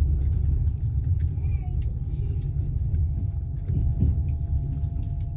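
Passenger train carriage rolling over the rails: a steady low rumble with scattered sharp clicks from the wheels over the track, and faint voices in the background.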